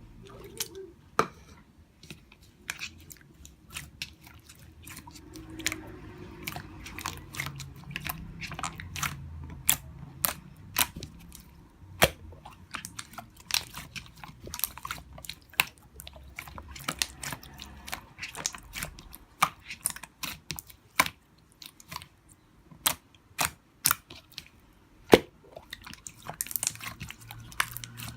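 Glitter slime being squeezed and poked by hand, giving many sharp, irregular clicks and pops.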